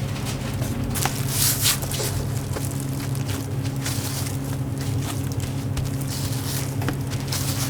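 Steady low hum of shop kitchen equipment, with scattered short scraping and clattering sounds from food being handled.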